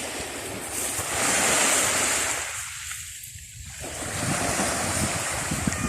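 Ocean surf: a wave breaks and washes in about a second in, then fades, and another surge of surf follows. Wind is rumbling on the microphone throughout.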